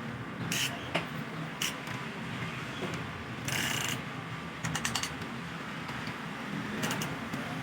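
Scattered metallic clicks and clinks of hand tools and engine parts being handled, with a short rasping, ratchet-like burst about three and a half seconds in and a quick run of clicks shortly after.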